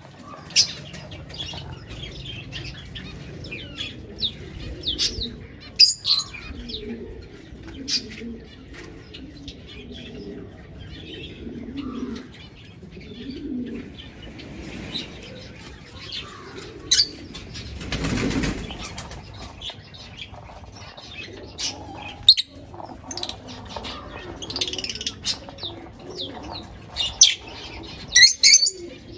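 Small cage birds, lovebirds and finches, chirping and calling, with many short, sharp high chirps throughout. A brief flurry of wing flapping comes about eighteen seconds in.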